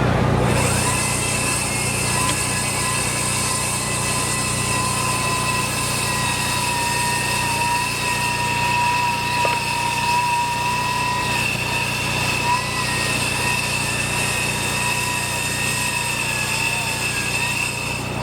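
A motor-driven construction machine or power tool running steadily with a high whine, its pitch holding nearly constant and wavering slightly, over a low hum.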